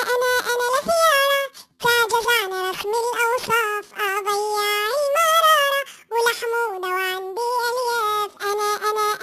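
A children's song sung by a high-pitched, pitch-shifted cartoon voice like the Talking Ginger app's, without accompaniment, in short phrases with brief breaks.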